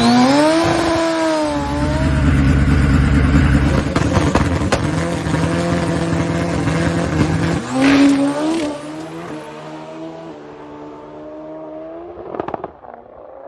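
Turbocharged Pro Extreme drag motorcycle engine running loud at high revs, with a couple of sharp pops about four seconds in. Past the middle its pitch jumps, then climbs in steps as the bike shifts up, and the sound fades as it pulls away.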